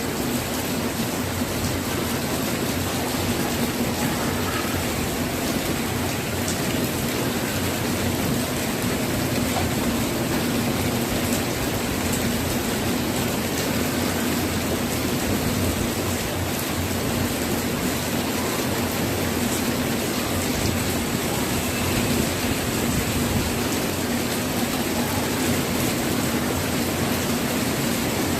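Heavy monsoon rain pouring down steadily.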